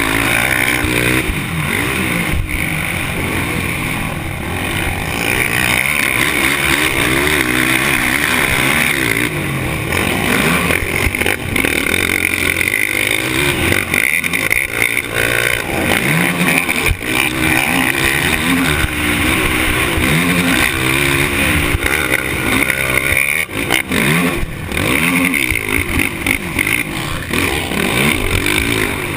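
Several off-road racing engines revving hard and shifting. Their overlapping pitches keep rising and falling as they go around the track.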